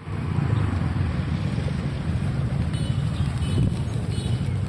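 Wind buffeting the microphone in a steady low rumble, with a few faint, short high chirps in the second half.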